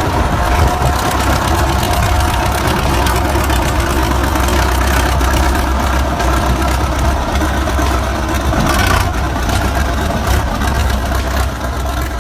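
A large vehicle engine running steadily with a deep, even drone.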